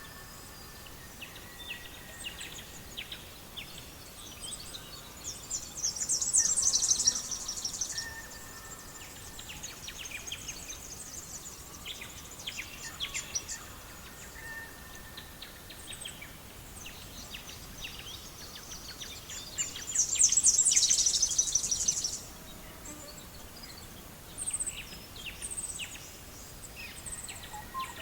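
Songbirds chirping, with two loud, rapid high trills, one about six seconds in and one about twenty seconds in.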